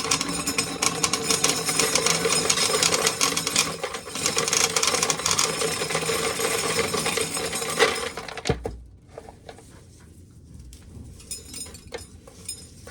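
Corn sheller running with ear corn going through it, kernels and cobs rattling and clattering at a fast, steady rhythm. It stops about eight seconds in, leaving a few light clicks and knocks.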